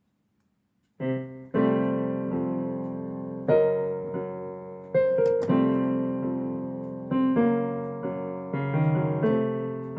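Solo digital piano playing a slow bossa nova jazz arrangement: chords struck about once a second and left to ring, beginning about a second in after near silence.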